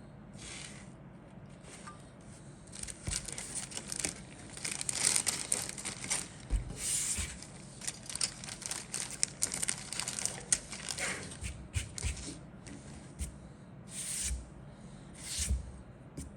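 Plastic packaging crinkling and rustling in irregular bursts as a model kit's bagged parts are handled, with a few soft knocks and two short rustles near the end.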